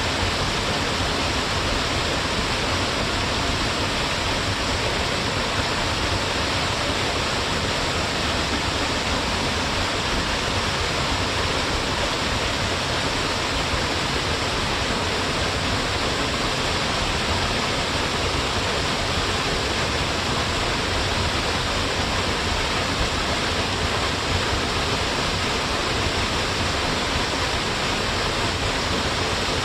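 Waterfall: water falling in a straight, narrow drop and splashing below, a steady, unbroken rush.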